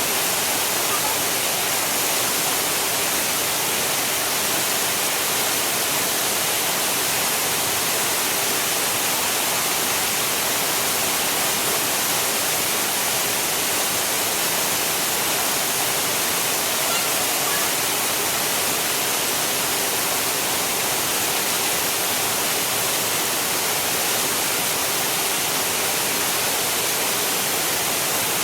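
Water rushing down a stream waterfall, a steady unbroken hiss.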